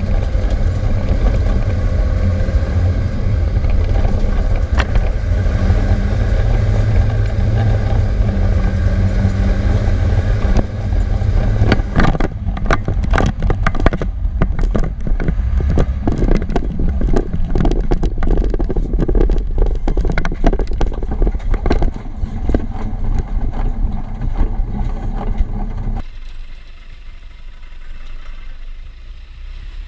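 Land Rover Defender 90 engine running while driving off-road. About twelve seconds in, a dense run of irregular cracking and scraping starts over the engine. Near the end it drops to a much quieter low running sound.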